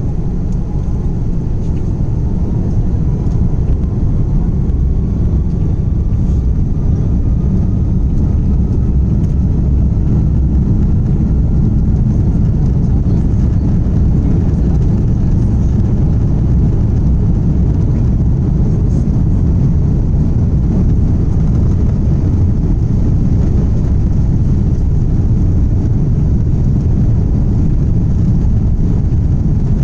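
Airbus A330 jet engines running at takeoff power: a loud, steady low rumble, with a faint whine that slowly rises in pitch through the first half.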